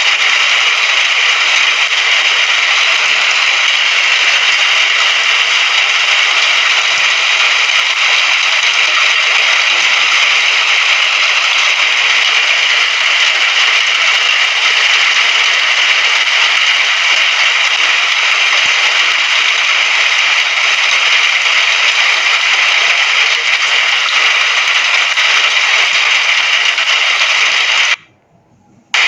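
Rain falling steadily, an even hiss, that cuts out for about a second near the end and then starts again.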